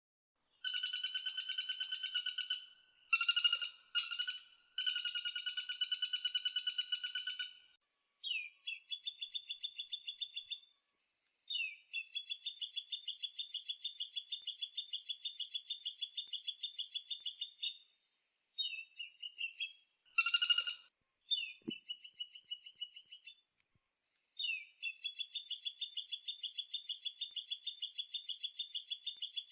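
Woodpecker calling in fast rattling trills: high-pitched strings of rapidly repeated notes, some lasting several seconds, with short breaks between them.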